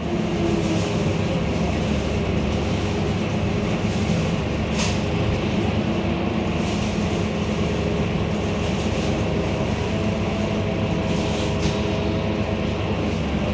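Scania K230UB city bus's diesel engine running steadily under way, with road noise. A couple of short clicks or rattles come about five seconds in and again near eleven seconds.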